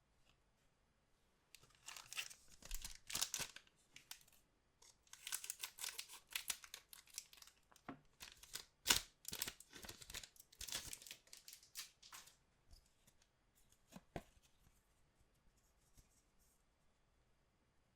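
Trading card pack wrapper being torn open and crinkled by hand, in two stretches of rustling tearing, followed by a single faint click.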